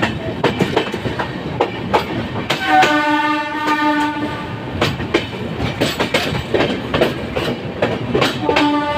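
Poorva Express passenger train wheels clattering over rail joints and points. A train horn sounds for about a second and a half near three seconds in, then sounds again near the end.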